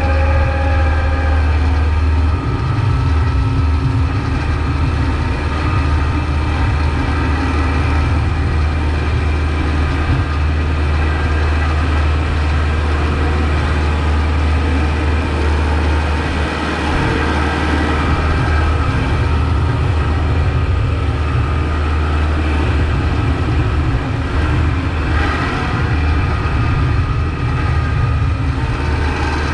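Kubota MX5200 tractor's four-cylinder diesel engine running steadily under load while plowing snow, a continuous low drone that shifts slightly in pitch a few seconds in and again midway.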